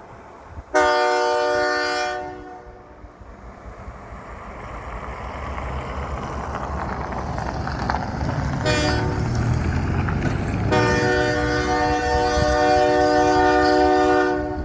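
Locomotive horn blowing a long blast, a short toot about nine seconds in, and another long blast near the end, over the low rumble of the train, which grows louder as it comes closer.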